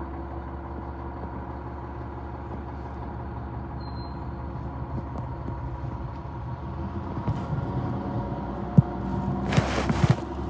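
Garbage truck's diesel engine running steadily as the truck is manoeuvred, growing louder about two-thirds of the way through, with a couple of sharp knocks and then a short loud hiss near the end.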